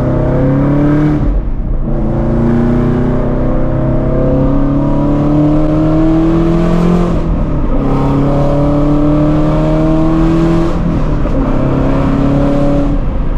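A straight-piped 5.2-litre flat-plane-crank V8 in a Shelby GT350, with long-tube headers, accelerating through the gears. The exhaust note climbs steadily in pitch within each gear and drops at each of about three upshifts.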